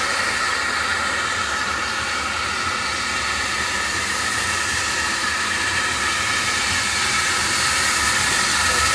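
Steam locomotive hissing steadily with escaping steam.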